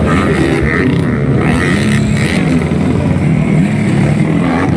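Several 155cc trail motorcycle engines racing, their pitches rising and falling as the riders rev and shift.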